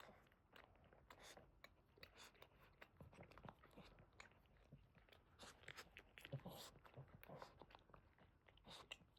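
Faint, irregular wet clicks and smacks of a Boston terrier licking her own foot.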